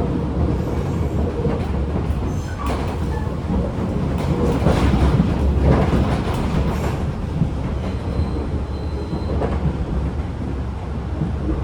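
Tobu 10000 series field-chopper electric train running, heard from inside motor car MoHa 15601: a steady low rumble of wheels and running gear with wheel clacks over rail joints, most of them around the middle. A thin high squeal comes in for about a second and a half, about eight seconds in.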